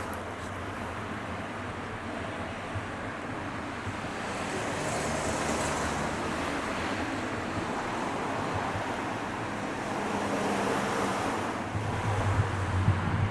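Nose Electric Railway 1700 series train at the station: a steady rushing noise with a low hum, and a few sharp knocks near the end.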